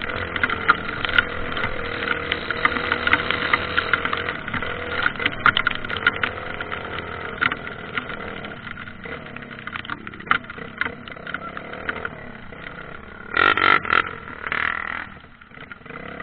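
Dirt bike engine running, with crackling sounds over it, gradually getting quieter over the second half. Two short, louder sounds come near the end.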